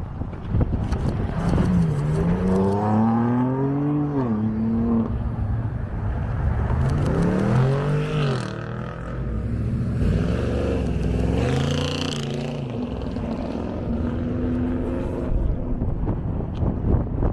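Car engines revving, the pitch climbing and dropping back several times, with wind noise on the microphone.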